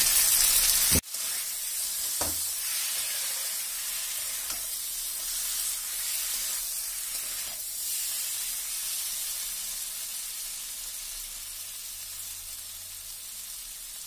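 Spiced masala with potatoes and boiled eggs sizzling in a kadai while a metal spatula stirs it, with a few faint scrapes of the spatula on the pan. The sizzle drops sharply about a second in, then continues steadily and slowly fades.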